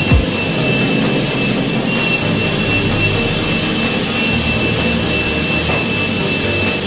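Steady machine noise: an even rushing sound with a thin high whine held at one pitch.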